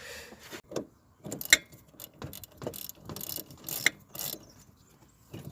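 A ratchet wrench being worked in short, uneven strokes, each a brief burst of clicking, while a pinch bolt is fitted and tightened.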